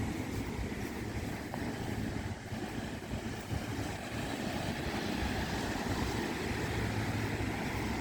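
Steady rush of sea and wind, with wind buffeting the microphone.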